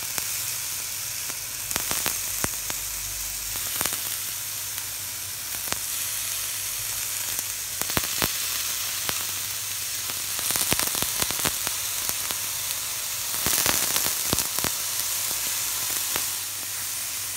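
Pineapple pieces searing in a lightly oiled hot wok: a steady sizzle dotted with sharp pops and crackles, louder for a moment twice in the second half.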